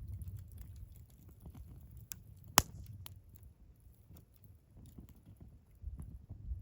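Wood fire burning in a Picogrill 398 fire pit: a low rumble with scattered faint crackles and one sharp, loud pop about two and a half seconds in.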